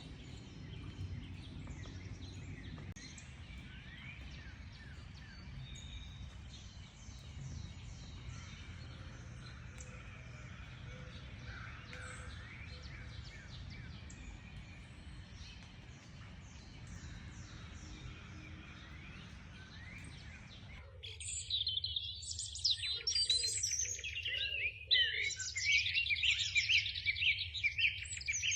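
Several wild birds chirping and whistling faintly over a steady low rumble. About two-thirds of the way through it cuts abruptly to a much louder, dense chorus of rapid, high-pitched birdsong.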